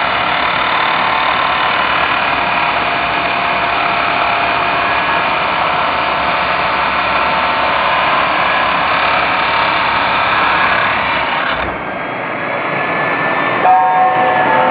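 Power tool running under load, cutting a length of steel bar stock. About twelve seconds in the sound drops and changes, and there is a short knock near the end.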